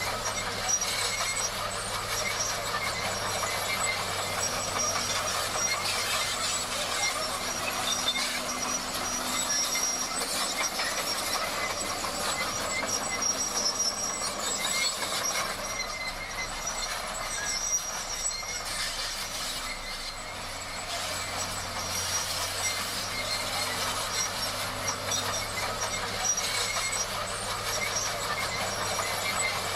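Komatsu D58 crawler bulldozer working, its diesel engine running under a steady clatter of the steel tracks, with thin high squeals from the undercarriage.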